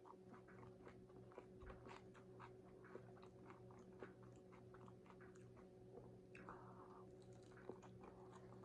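Faint close-up chewing of a crunchy hard-shell taco: many small, irregular crunches as the shell is bitten and chewed, over a low steady hum.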